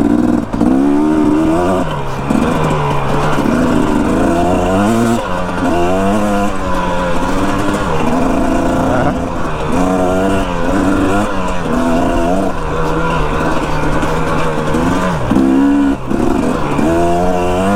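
Dirt bike engine under way, its pitch climbing and dropping back again and again as the throttle is opened and closed.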